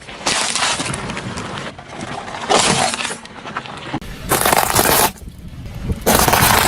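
Objects being crushed under a car's tyres: four loud bursts of crunching and cracking, breaking like brittle plastic or glass.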